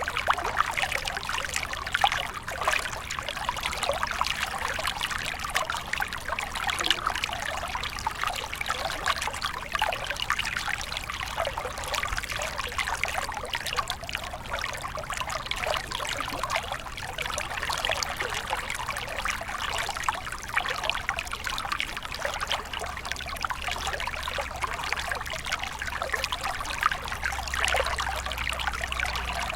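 Shallow stream flowing and trickling over stones, a steady babble of many small splashes and gurgles.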